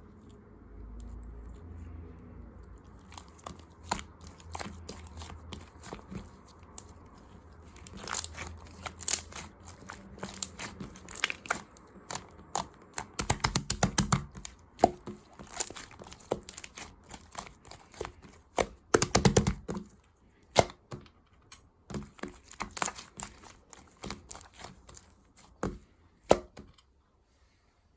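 Rainbow slime being squished and stretched by hand, giving sticky crackling pops and clicks: sparse at first, then thick and busy, with louder bunches of pops around the middle.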